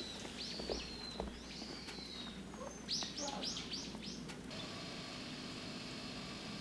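Small bird calling: a few high chirps and thin, falling whistles, then a quick run of about five chirps around three seconds in.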